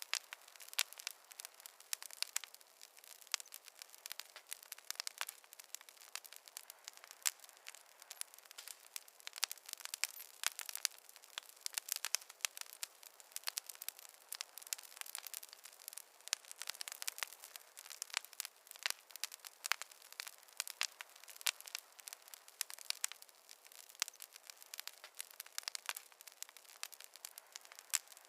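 Wood fire crackling and popping in a fireplace: dense, irregular sharp snaps over a faint hiss.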